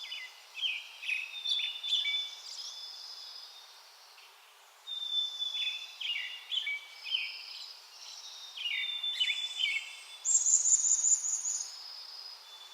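Backyard songbirds singing. The same phrase comes three times: a held high note, then a quick run of lower notes. About ten seconds in, a louder, higher buzzy trill lasts about a second.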